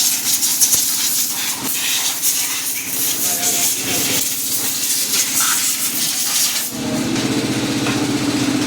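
Loud, steady hissing spray with a faint low hum under it. About seven seconds in, the hiss drops away and a small engine takes over, running steadily.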